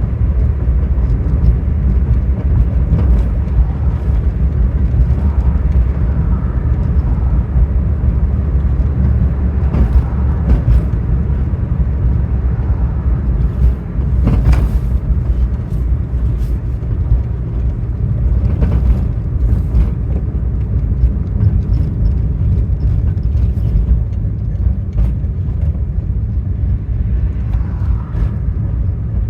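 Road noise heard from inside a moving car: a steady low rumble, with a few brief knocks about ten, fourteen and nineteen seconds in.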